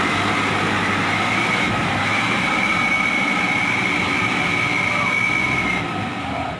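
Dump truck engine running hard under load, with a steady high-pitched whine over it; the whine fades and the noise drops off near the end.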